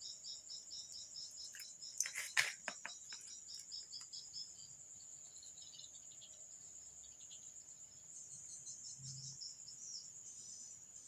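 Steady high-pitched insect chirping, like crickets, with a short cluster of sharp clicks about two seconds in.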